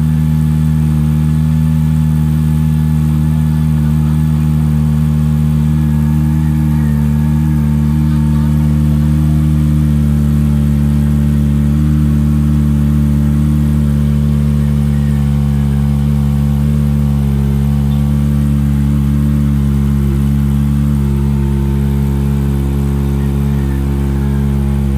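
Kawasaki ZX-25R's 249 cc inline-four idling steadily through an Akrapovic exhaust, warming up after a cold start.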